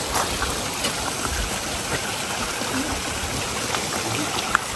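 Small snowmelt-fed spring stream running, a steady rush of flowing water, with one short click near the end.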